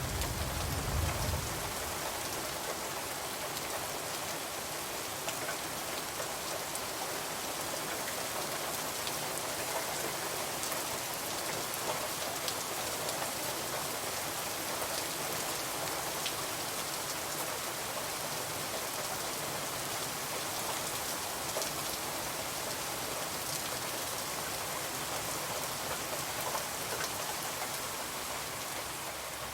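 Steady rain falling on a window, with scattered faint sharp ticks through it. A brief low rumble sounds in the first second or so.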